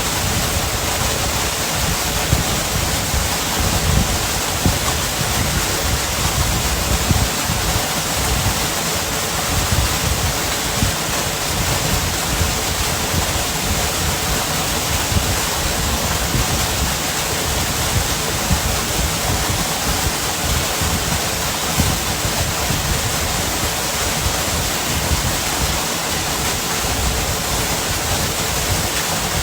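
Waterfall: a loud, steady rush of falling water, with an unsteady low rumble underneath.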